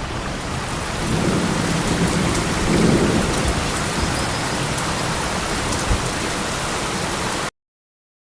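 Steady rain with a low roll of thunder that swells about a second in and peaks around three seconds, then fades back into the rain. The sound cuts off suddenly near the end.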